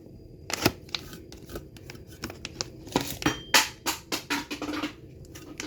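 A run of irregular clicks and knocks from hard objects being handled, with no steady rhythm.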